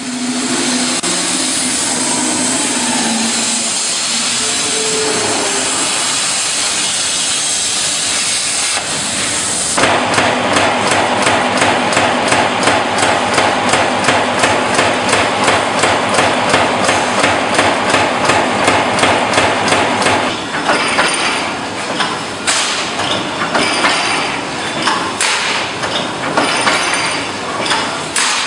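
Metalworking machinery in a workshop: a steady hiss, then from about ten seconds in a fast, even run of hammering strokes, which turn into irregular metal knocks about twenty seconds in.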